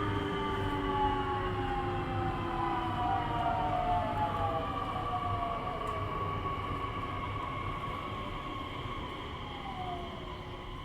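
Nishitetsu 3000 series electric train's traction motors and inverter whining in several tones that fall together as the train brakes toward a stop. Under the whine runs a steady low rumble, and the whole sound fades slowly.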